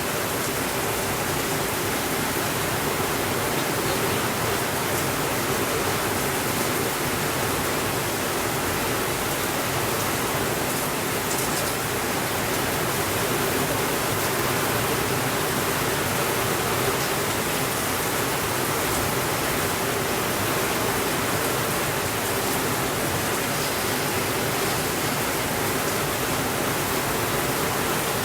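Heavy rain falling steadily on a window: a constant, even hiss with no breaks or changes in level.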